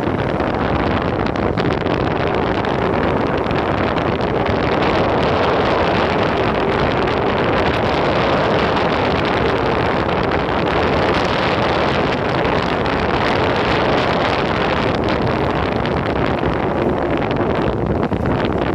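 Steady wind noise buffeting the phone's microphone while riding along at speed, a loud, even rush with no breaks.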